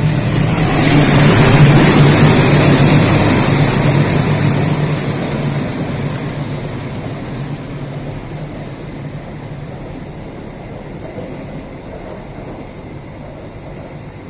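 A train passing close by, loudest about two seconds in and then slowly fading away as it recedes, with a steady low hum underneath.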